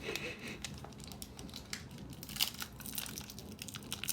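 Plastic trading-card pack wrapper crinkling and crackling as it is handled, with a few louder crackles about two and a half seconds in and near the end.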